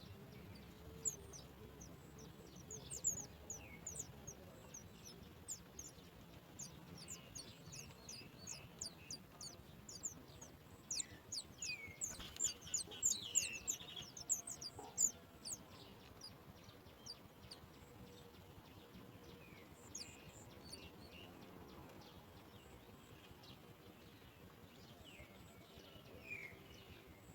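Small birds chirping at a nest: a dense run of short, very high, thin chirps through the middle, with a few lower calls near the start and the end.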